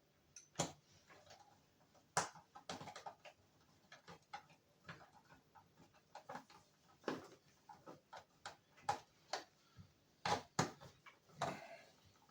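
Irregular clicks, taps and light knocks of small plastic and metal parts being handled and fitted while an instrument cluster is put back together, with self-tapping screws going in.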